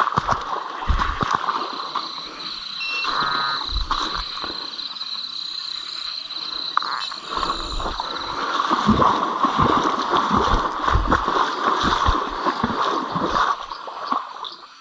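Footsteps wading through shallow floodwater, water splashing and sloshing with each irregular stride, over a steady faint high-pitched drone.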